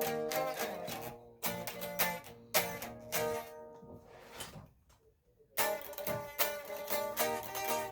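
Instrumental music on a plucked string instrument, a run of short picked notes that ring and fade, breaking off briefly a little past the middle before the playing resumes.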